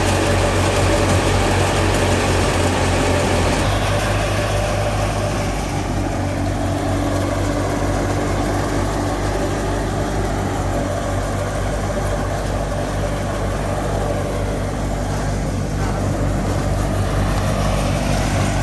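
Fiat 480 tractor's diesel engine running steadily while it drives a wheat thresher. About four seconds in, the engine note shifts and the higher hiss eases.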